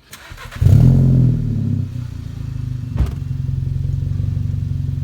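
Volkswagen Jetta 1.8T turbocharged four-cylinder started through a muffler-delete exhaust with a Borla resonator: a brief crank, the engine catches with a loud flare of revs, then settles into a steady low idle. A single sharp click about three seconds in.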